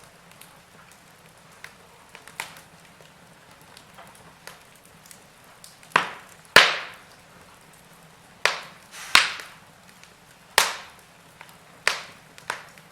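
Burning logs in a fireplace crackling: scattered small ticks, then, from about six seconds in, a run of loud sharp pops and snaps, each dying away quickly, over a faint low hiss.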